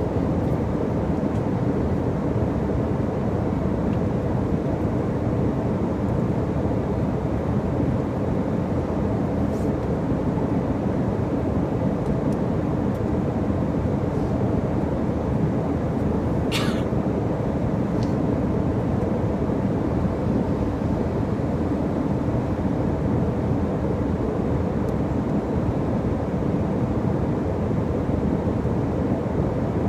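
Steady engine and airflow noise inside an airliner cabin in flight, a low, even rumble. A brief higher-pitched sound cuts through it about two-thirds of the way through.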